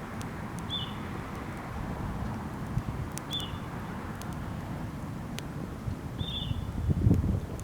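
Wood campfire crackling with scattered sharp pops over a steady low rushing noise, while a bird repeats a short high chirp every two to three seconds; a louder low thud comes near the end.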